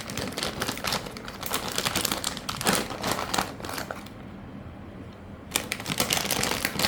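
Plastic packet of shredded cheese crinkling and rustling as the cheese is shaken out onto a pizza, in irregular crackles with a pause of about a second and a half a little past the middle.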